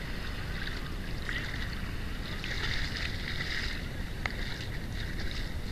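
Small surf waves washing and fizzing over the shallows close by, with wind rumbling on the microphone; the wash swells about two and a half seconds in.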